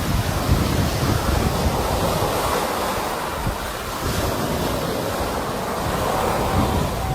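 Sea waves washing ashore in continuous surging surf, with wind on the microphone. A faint steady tone sounds briefly near the end.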